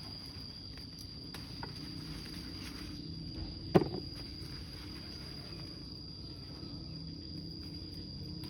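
A steady high-pitched insect drone over low outdoor background noise, with one sharp knock or snap about four seconds in.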